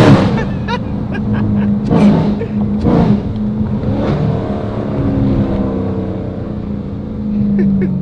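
Dodge Charger Scat Pack's 392 HEMI V8 heard from inside the cabin: the engine drops sharply in level right at the start, then runs at a steady, lower note.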